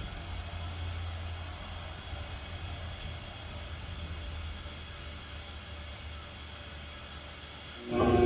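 A steady hiss over a low hum. Near the end an engine starts up and runs loudly.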